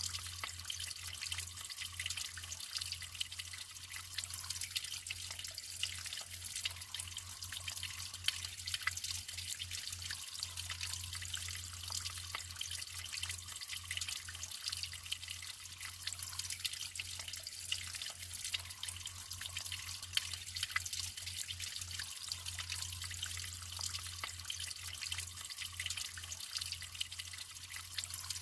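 Natural running water trickling and splashing steadily, with many small droplet ticks.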